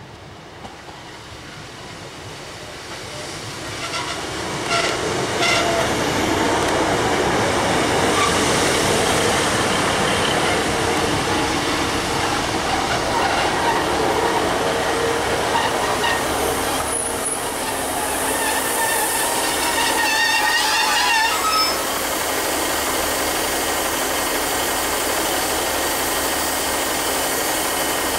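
Class 150 Sprinter diesel multiple unit arriving at a station platform: the engines and wheels grow louder over the first five seconds and the train runs past steadily. Wavering brake squeal comes in about two-thirds of the way through and stops sharply as the train halts, leaving its diesel engines idling.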